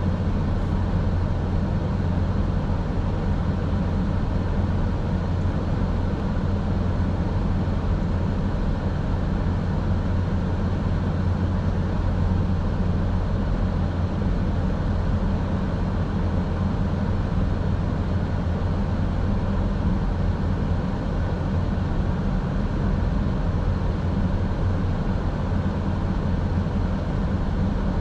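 Car driving, heard from inside the cabin: a low, steady rumble of road and engine noise.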